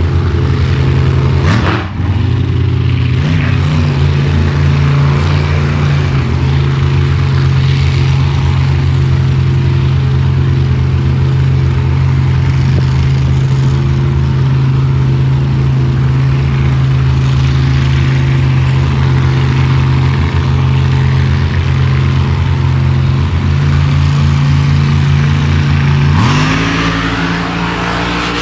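A motor vehicle's engine running at a steady drone, with a brief dip about two seconds in. Near the end its pitch rises and then falls away.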